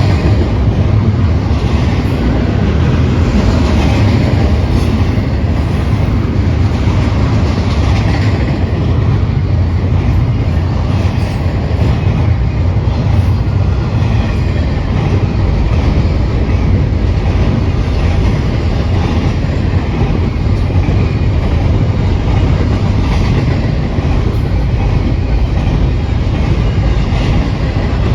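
Union Pacific freight train's cars rolling past: a steady, loud rumble of steel wheels on rail, with clicking as the wheels cross rail joints.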